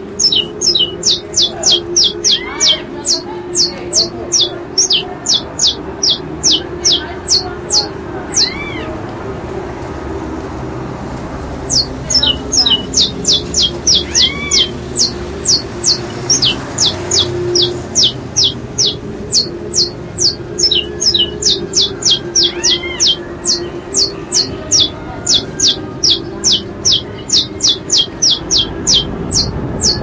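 A bird calling in a fast run of sharp, high, down-slurred chirps, about three a second, pausing briefly about a third of the way in, with a few lower arched calls mixed in. A steady low hum runs underneath.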